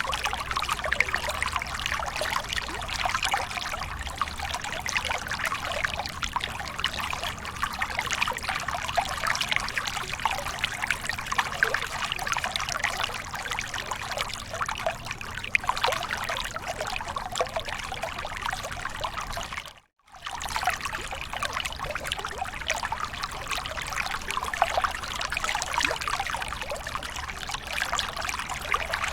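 Water falling and splashing in a steady, trickling rush, as from a small waterfall. The sound cuts out for about half a second roughly two-thirds of the way through, then resumes.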